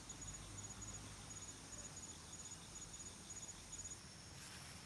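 An insect chirping in short high-pitched trills, repeated about twice a second, that stop near the end.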